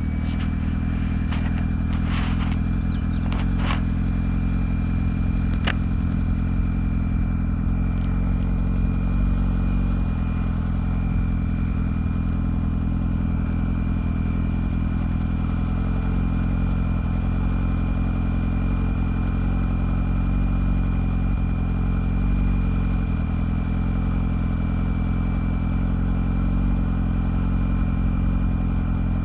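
2007 Yamaha R6's inline-four engine idling steadily through 2005 R6 stock headers and a Two Brothers slip-on exhaust, with no revving. A few sharp clicks come in the first six seconds.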